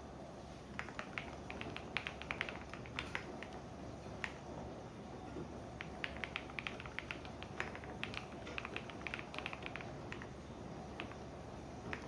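Computer keyboard typing in quick runs of key clicks, pausing in between, over the steady low hum of a washing machine running.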